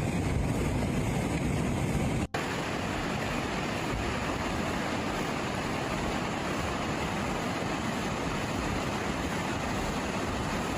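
Steady rushing noise of fast-moving floodwater. It breaks off for an instant at a cut about two seconds in, then continues evenly.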